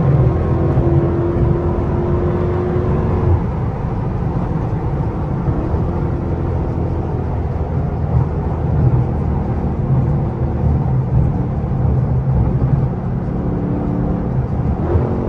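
Dodge 392 HEMI 6.4-litre V8 under way at speed. The engine holds a steady note, eases off about three seconds in, and picks up again with a rising tone near the end.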